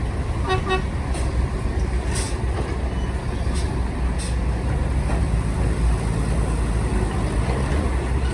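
Heavy diesel earthmoving machinery running with a steady low rumble. Two short beeps sound about half a second in, and a few brief hisses come in the first half.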